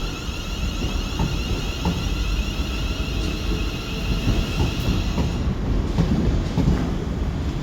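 Train moving through a station: a steady low rumble with a high whine that stops about five and a half seconds in, and scattered light clicks.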